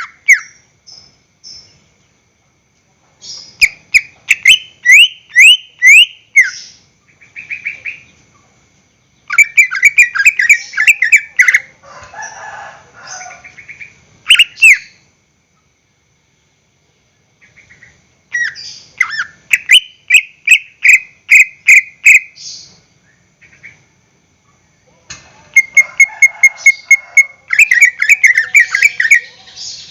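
Green leafbird (cucak ijo) singing vigorously ('gacor'): about five loud bursts of rapid, repeated chirping notes, with short silent pauses between them.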